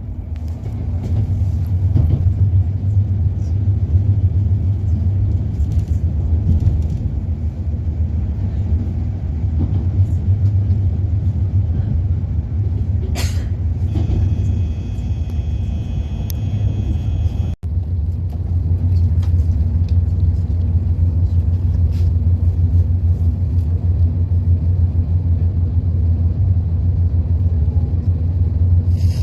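Steady low rumble of a Shinkansen train running, heard inside the passenger cabin. A brief set of steady higher tones sounds about halfway through.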